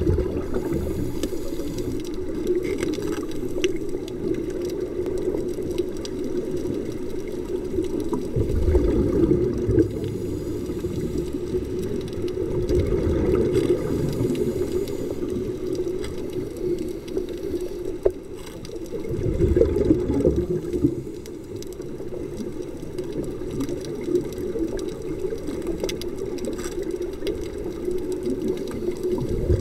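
Muffled underwater sound through a camera housing: a steady low hum, with a scuba diver's exhaled regulator bubbles surging up as low rumbling gurgles a few times.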